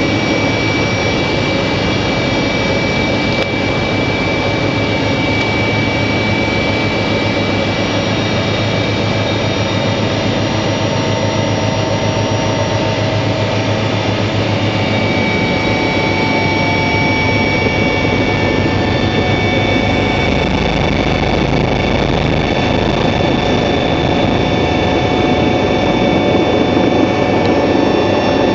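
Helicopter in flight: the steady, loud noise of its turbine engine and rotor, with a high whine held at a near-constant pitch.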